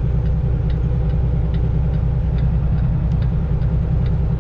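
Semi-truck's diesel engine running steadily at low speed, a deep rumble heard from inside the cab, with a light regular ticking about twice a second.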